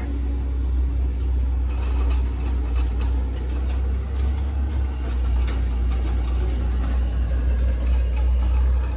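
Hitachi ZX110 MF excavator's diesel engine running steadily, a constant low drone with a few faint knocks over it.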